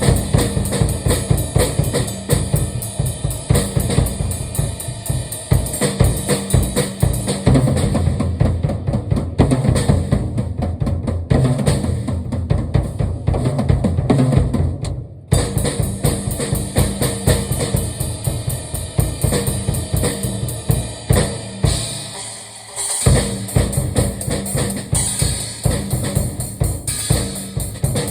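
Drum kit played fast and continuously, with busy bass drum and snare strokes and cymbals. The playing stops briefly about halfway through, then carries on.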